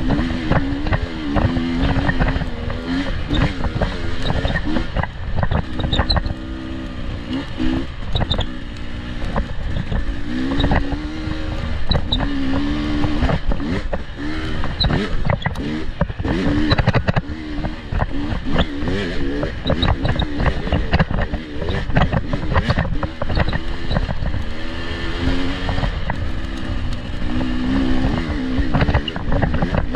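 Off-road vehicle engine revving up and down as it is ridden, its pitch rising and falling every second or two, with frequent knocks and jolts from the rough ground.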